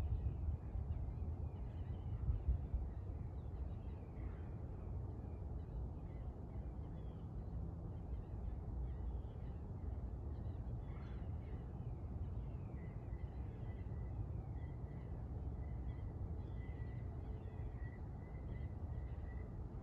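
Distant birds calling over a steady low rumble of outdoor ambience. About two-thirds of the way in, a rapid string of short, high notes at an even pitch starts and keeps going.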